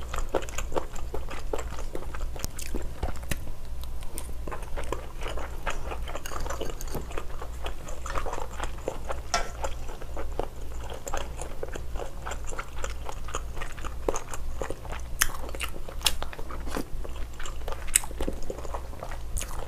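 Close-miked chewing and biting of spicy stir-fried seafood (octopus, beef tripe, shrimp and scallop): a steady run of short wet clicks and smacks from the mouth. A steady low hum sits under it.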